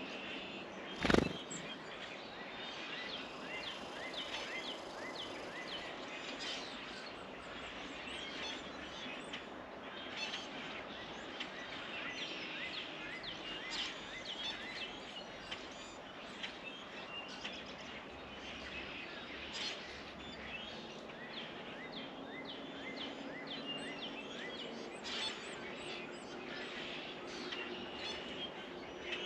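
Small songbirds chirping and calling at a feeder, many short high notes throughout over a steady outdoor background hiss. A single sharp knock about a second in is the loudest sound.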